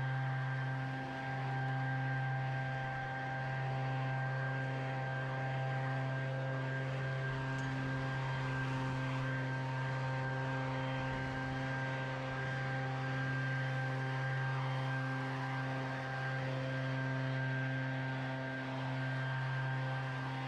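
Small engine of handheld lawn equipment running steadily at high speed, its level dipping slightly every couple of seconds.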